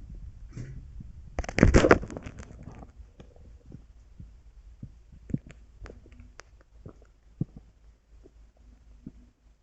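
Bathwater with a Bub carbonated bath tablet in it: a short splash about a second and a half in, then scattered small pops and ticks from the fizzing tablet that thin out towards the end.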